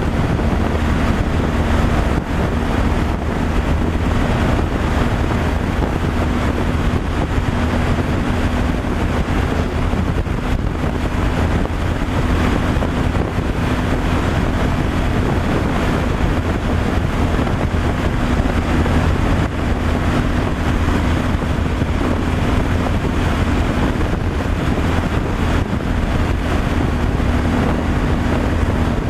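Truck on the highway: a steady engine drone with a constant hum over road rumble and wind noise on the microphone.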